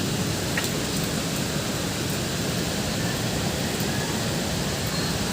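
Heavy rain pouring down steadily, a dense unbroken hiss with a few faint ticks of drops.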